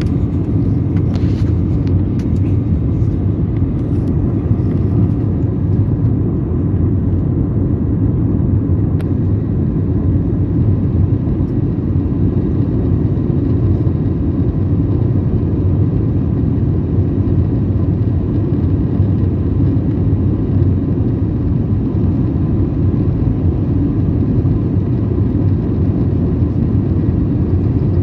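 Steady low rumble inside an Airbus airliner's cabin: jet engine and airflow noise, unchanging throughout. A few faint ticks in the first few seconds.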